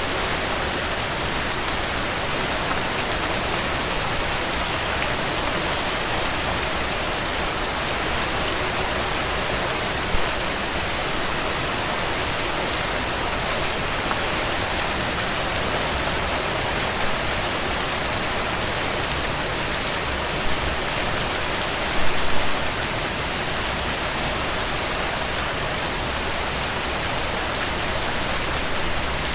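Steady rain pattering on a tent, an even hiss of drops. A few louder pops stand out, the biggest cluster about 22 seconds in.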